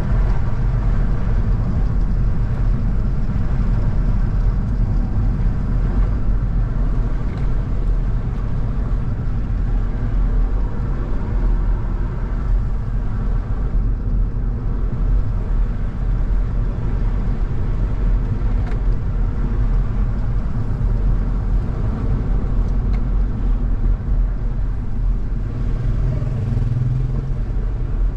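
A car driving along a road: a steady low rumble of engine and tyre noise. The low tone rises a little in strength near the end.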